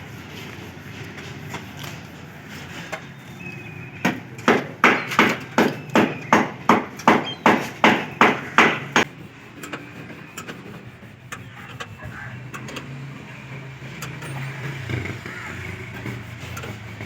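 Hammer blows, about fourteen in quick succession at roughly three a second, starting about four seconds in and stopping about five seconds later, against a faint steady background.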